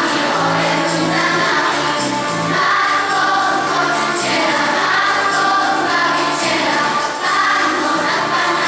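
Choir singing a Polish Christmas carol (kolęda) in sustained, held notes.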